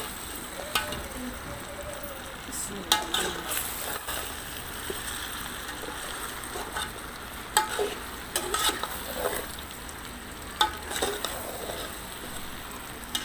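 Chicken and arvi (taro root) frying in a masala in a large metal pot, sizzling steadily. A metal ladle scrapes and knocks against the pot at irregular intervals as the food is stirred. This is the bhuna stage, browning the taro before water is added for the gravy.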